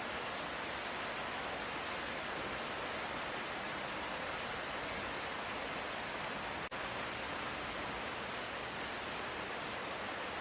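Steady light rain, an even hiss with no thunder, broken by one momentary dropout about two-thirds of the way through.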